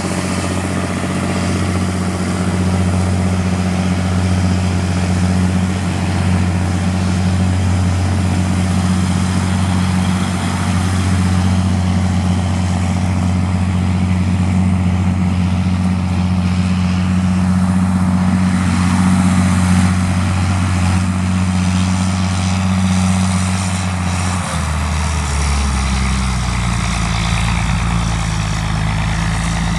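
A farm machine's engine runs steadily under corn harvesting. About 24 seconds in, its note drops to a lower, deeper hum.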